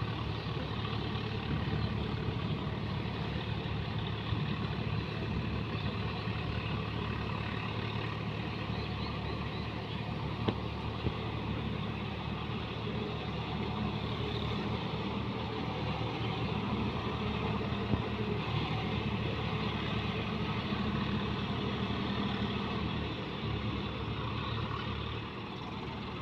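John Deere 5210 4x4 tractor's diesel engine running steadily, easing off slightly near the end.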